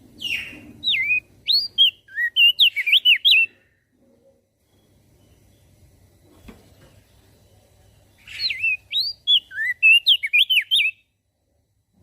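Crested dark-eye (opior jambul) singing two bursts of quick, swooping whistled notes, the second starting about eight seconds in.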